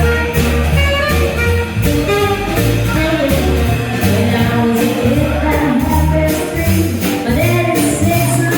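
Live swing jazz band playing with a steady beat.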